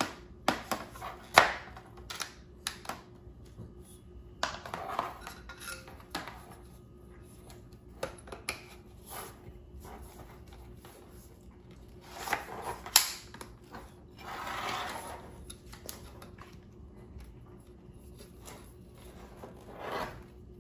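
Small hard parts clicking and knocking as they are handled and fitted into an inflatable kayak, with bursts of rustling in between. The sharpest clicks come about a second in and about thirteen seconds in.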